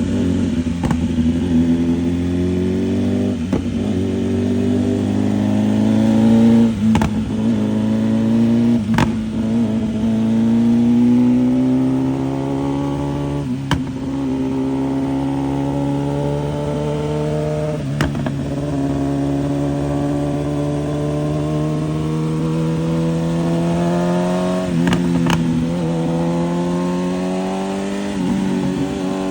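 BMW S1000RR inline-four engine running through a titanium full exhaust while the bike pulls hard: the note climbs slowly and drops back at each upshift, several times over. Short sharp cracks come now and then.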